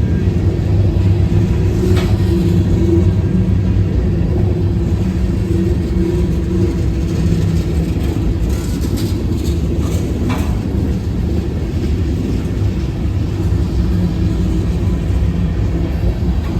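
CSX freight train's diesel locomotives running with a loud, steady low rumble, with a few short sharp knocks in between.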